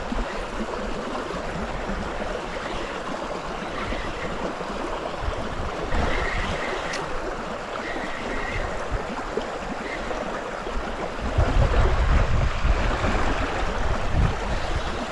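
Steady rush of flowing river water, with a low rumble on the microphone for a couple of seconds near the end.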